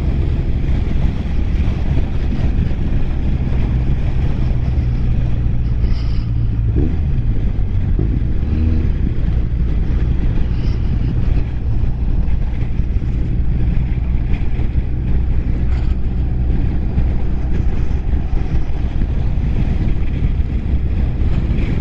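BMW R1200R boxer-twin motorcycle engine running at cruising speed under heavy wind rush on the helmet microphone; the engine note dips briefly about seven seconds in, then picks up again.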